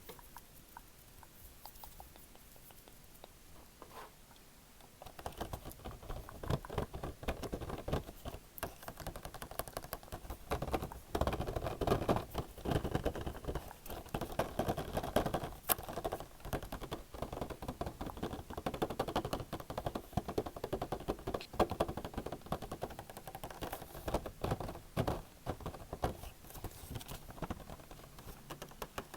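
Close-miked rapid tapping and scratching on an object: a dense run of small clicks and rustles that starts about five seconds in, after a few faint scattered clicks.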